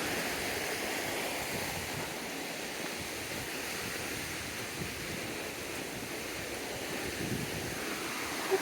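River water rushing steadily, an even continuous noise.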